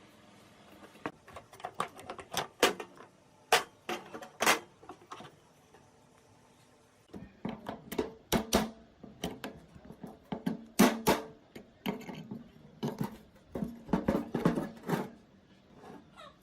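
Irregular metal clinks, taps and knocks, several a second in bunches with a pause about six seconds in, from tools and rusty iron machine parts being handled and worked on.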